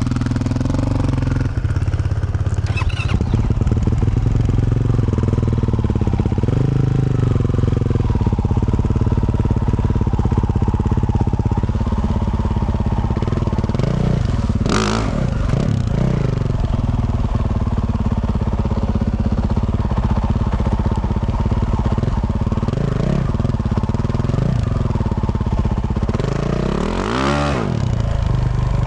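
2024 Yamaha YZ450F single-cylinder four-stroke dirt bike with a Yoshimura RS-12 exhaust, running under way as it is ridden. The engine note rises and falls with the throttle, with a sharp rev about halfway through and another rise and fall near the end.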